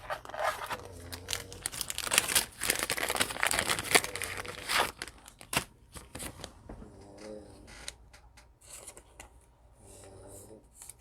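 A trading-card pack wrapper being torn open and crinkled, dense rustling for about the first five seconds, then lighter scattered rustles and clicks of cards being handled.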